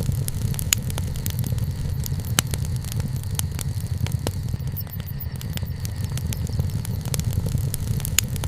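Wood campfire burning, with a steady low rumble and frequent irregular sharp crackles and pops of the burning wood.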